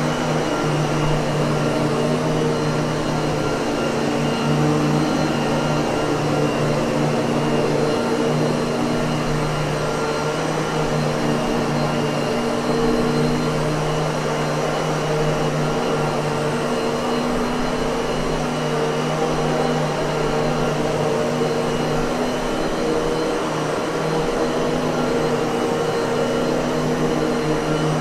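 Miele vacuum cleaner running steadily: an even rush of air over a constant low hum, with no change in speed.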